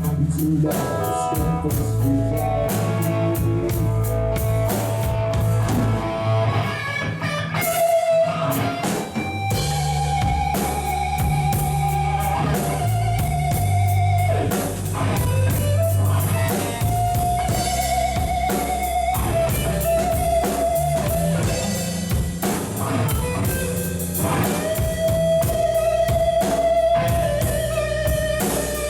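Band music: an electric guitar plays long held lead notes with vibrato over bass guitar and a drum kit.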